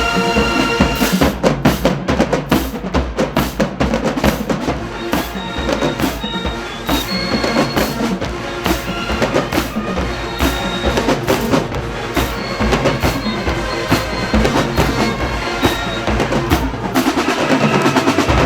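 Marching band drumline playing a cadence: snare and bass drums beating a fast, steady rhythm with rolls.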